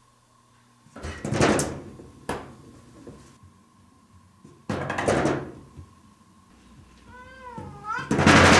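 A cat banging and rattling a door in three loud bursts: about a second in, around five seconds, and the loudest near the end. A single meow that rises and falls comes just before the last burst.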